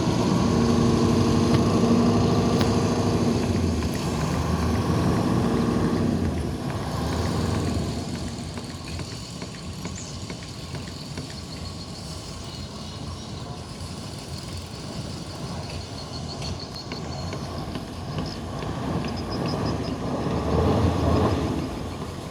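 Tugboat engine running, loud and steady for the first six seconds, then easing to a lower hum before swelling again near the end.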